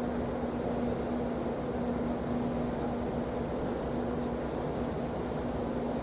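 Car ferry's engines and machinery droning steadily under way, a constant low rumble with a steady hum on top.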